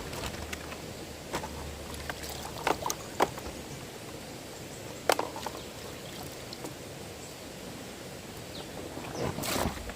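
Steady rush of flowing water, broken by about five sharp knocks, the longest and loudest near the end.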